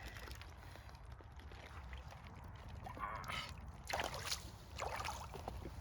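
Icy pond water sloshing and splashing as a person moves in it, with a few louder splashes about three to five seconds in.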